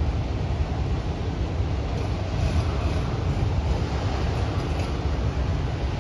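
Empty autorack freight cars rolling past on the rails, a steady low rumble of wheels and rattling cars.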